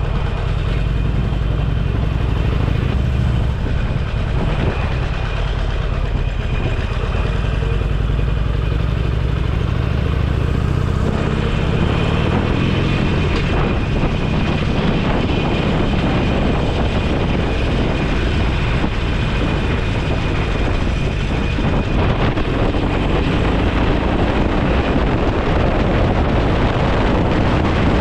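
Motorcycle engine running at low speed with a steady low hum. About eleven seconds in, a broad rush of wind and road noise comes up over the engine as the bike gets under way, and it holds to the end.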